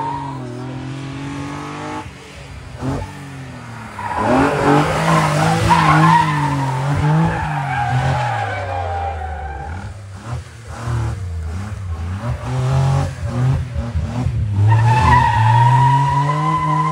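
A rally car's engine revving hard, rising and falling, while its tyres squeal and skid through spins, with loud squealing stretches about a quarter of the way in and again near the end.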